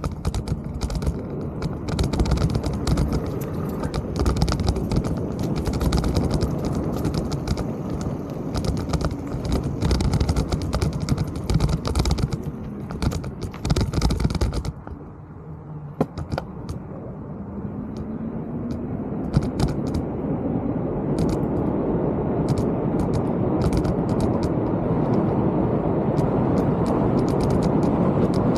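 Mountain bike riding a rough dirt trail: the tyres crunch and the bike rattles with frequent sharp clicks. About halfway it goes briefly quieter, then a steady rushing of tyres and wind builds up and holds.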